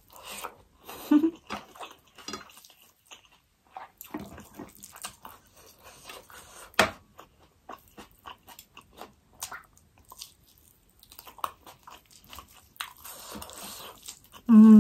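Close-miked eating: chewing a mouthful of food eaten by hand, with irregular wet lip smacks and mouth clicks.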